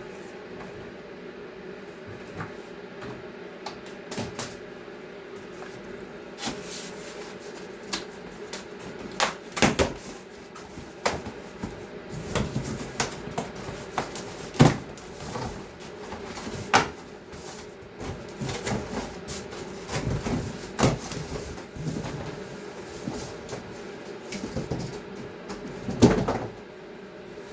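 Irregular knocks, clicks and clatter from handling a refrigerator door and its rubber door gasket, the loudest sharp knocks about 10, 15, 17 and 26 seconds in, over a steady low hum.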